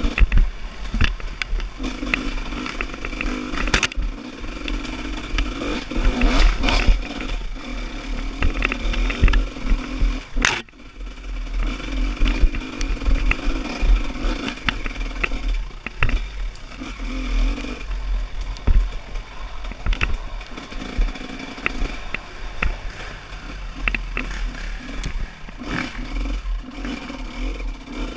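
Off-road trail motorcycle engine running and revving up and down unevenly, with frequent knocks and clatter from the bike over rough ground.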